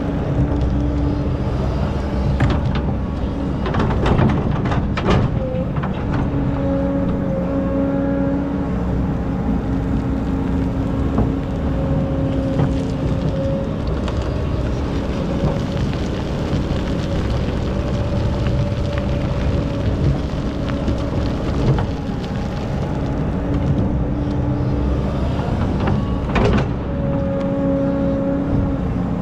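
Excavator engine running steadily under load with a hydraulic whine that comes and goes as it digs sand. A few sharp knocks and clanks come about two to five seconds in and once more near the end.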